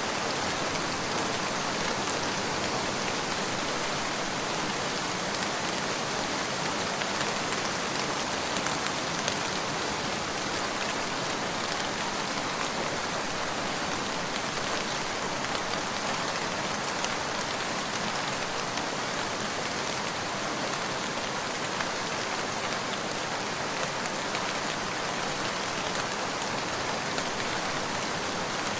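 Steady rain falling on a surface, an even hiss with scattered drop patter.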